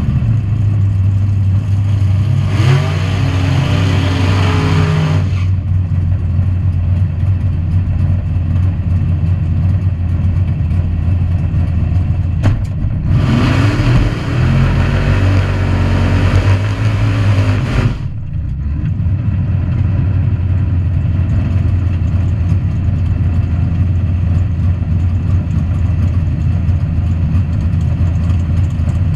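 Drag race car engine idling steadily, heard from inside the cockpit, with two louder stretches of engine revving a few seconds each, about three seconds in and again about thirteen seconds in.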